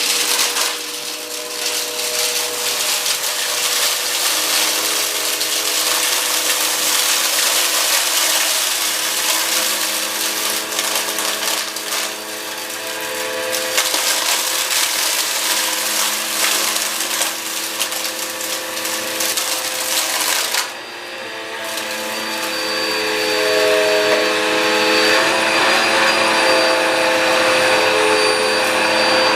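Cheap upright vacuum cleaner running through a heavy mess of grit, glass, screws and litter: a steady motor whine under a loud gritty crackle of debris rattling up through it. About two-thirds of the way in the crackle briefly drops away and the motor comes back with higher, whistling tones, as its airway clogs with debris.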